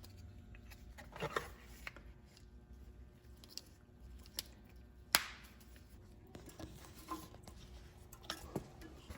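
Scattered light clicks and scraping from a metal shim being worked off the back of an old brake pad, with one sharp click about five seconds in.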